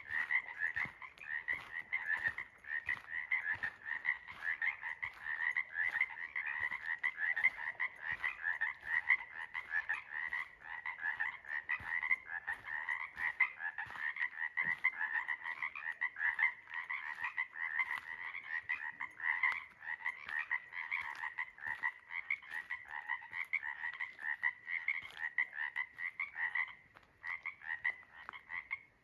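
Chorus of many frogs calling together in a dense, continuous mass of rapid pulsed trills.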